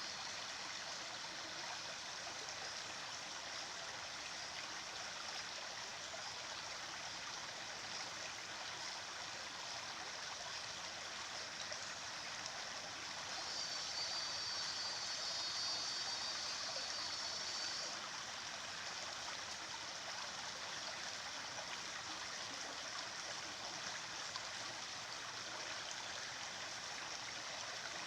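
Steady rush of flowing stream water. For about four seconds midway, a higher-pitched, slightly louder sound rises over it.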